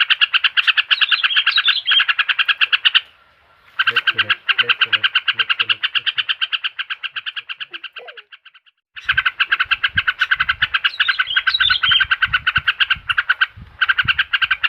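A looped recording of rapid chattering bird calls, played as a lure (pancingan) to set a silent trucuk (yellow-vented bulbul) singing. It is a fast, even pulsing of about ten notes a second that breaks off briefly twice.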